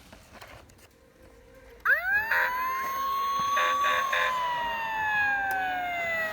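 A siren winds up about two seconds in, rising quickly, holding, then slowly sinking in pitch before cutting off suddenly at the end, with a few short pulsed notes over it while it holds.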